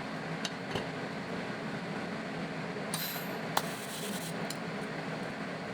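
Steady hum and hiss from a TIG welding setup, with a few light clicks and a brief high hiss about three seconds in.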